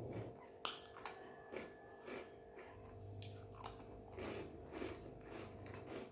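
A person chewing food close to the microphone, with crisp crunching bites about twice a second.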